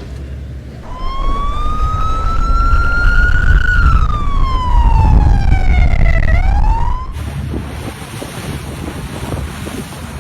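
Police boat siren wailing: one slow rise and fall, then a quick upward sweep before it cuts off about seven seconds in. Wind noise and the low rumble of the boat run underneath.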